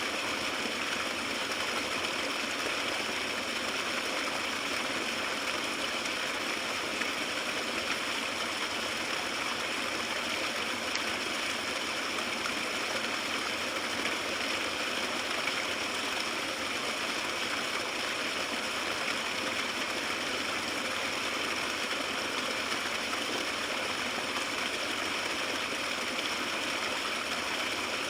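Small stream running over rocks, heard up close: a steady rushing splash of water.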